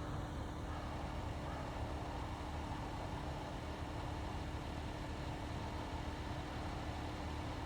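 Steady low engine rumble with a constant hum, like a vehicle idling; it does not change.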